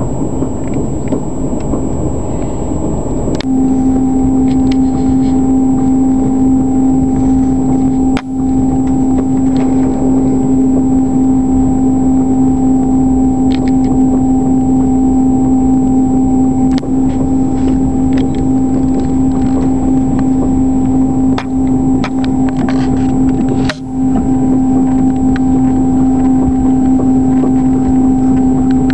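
Passenger train running, heard from inside the carriage: a steady low rumble, joined a few seconds in by a steady droning hum that holds.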